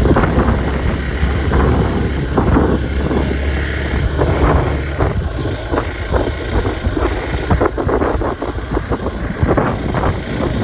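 Wind buffeting the microphone while riding a Hero Xpulse 200 4V motorcycle, with the low hum of its single-cylinder engine underneath that drops away about halfway through.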